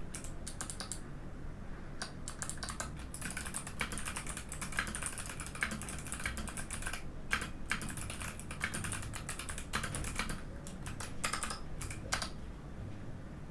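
Typing on a Mikit M65 mechanical keyboard with Kailh Box White clicky switches: a quick, uneven run of key clicks with a short pause about a second in, thinning out near the end.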